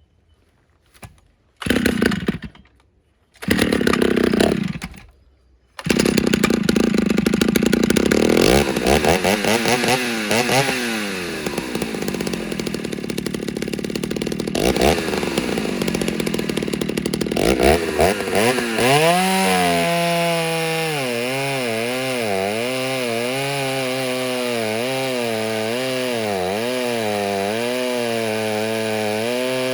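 Ported Stihl 08S two-stroke chainsaw with a stock muffler. It fires briefly twice, then catches about six seconds in and runs at high revs, its pitch dipping and recovering. From about nineteen seconds it settles to a lower, steady note that wavers regularly.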